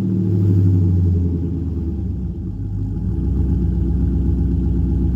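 LQ4 6.0 V8 with a Brian Tooley Racing stage 3 truck cam idling through a dual exhaust with Magnaflow muffler. The idle is a little higher for the first second, then drops and settles into a steady, lumpy idle.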